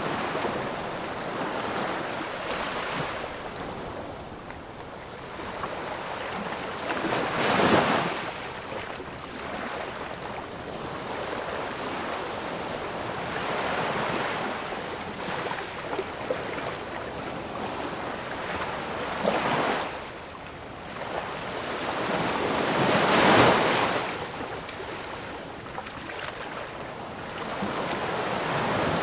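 Ocean waves breaking on a shore: a continuous wash of surf with two louder waves that build and crash, about a third of the way in and again near the end of the second third.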